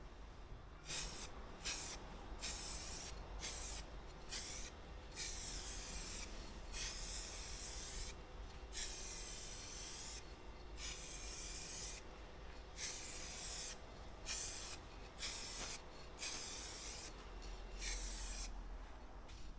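Aerosol spray can of Candy Green base coat paint hissing in a series of separate passes, some short and some lasting a second or two, as the colour coat is laid onto a motorcycle's plastic fairing.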